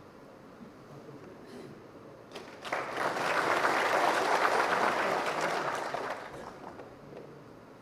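Audience applauding: a burst of clapping that starts about a third of the way in, holds for roughly three seconds and dies away.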